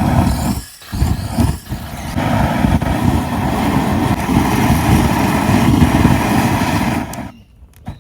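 A vehicle engine running steadily, then cutting off abruptly about seven seconds in.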